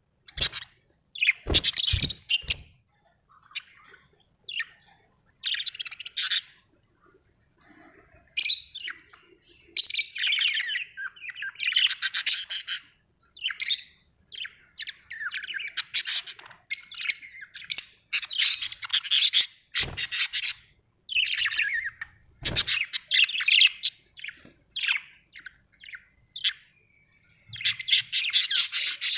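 Parrots chirping and squawking in repeated bursts of harsh chatter, with short gaps between calls. A few sharp knocks sound among them, about two seconds in and again twice past the middle.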